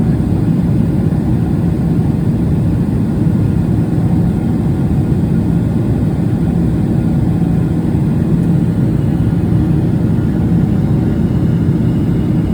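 Steady cabin noise of a Boeing 777-300ER in cruise: a constant low rumble of engine and airflow with a faint steady hum.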